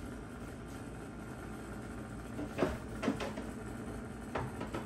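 A few light knocks and clatter of kitchen items being handled, about two and a half, three and four and a half seconds in, over quiet room tone.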